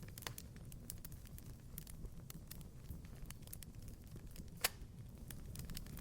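Fireplace fire crackling: a steady low rumble of flames with irregular small snaps throughout and one loud pop about three quarters of the way through.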